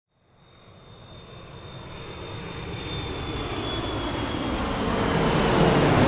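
Airplane engine noise heard inside the cabin: a steady rushing hum with a faint high whine. It fades in from silence and keeps growing louder.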